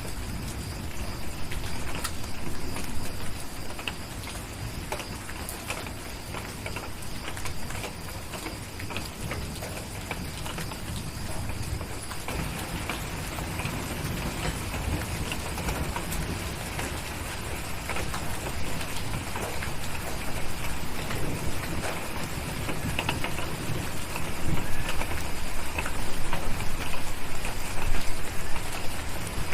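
Steady heavy rain on a cabin, with a crackling wood fire's scattered snaps and a low rumble of distant thunder underneath. It grows louder in the last few seconds.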